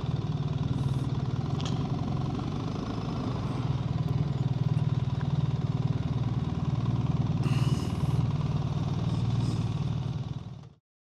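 BMW GS Adventure's boxer-twin engine running steadily at low revs. The sound cuts off abruptly near the end.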